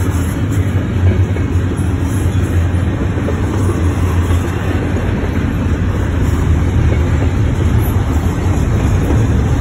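Double-stack container well cars of a Norfolk Southern mixed freight train rolling past: a loud, steady rumble of steel wheels on the rails.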